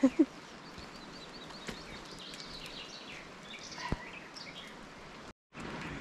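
Birds singing faintly in woodland, short chirps and trills over a quiet background hiss.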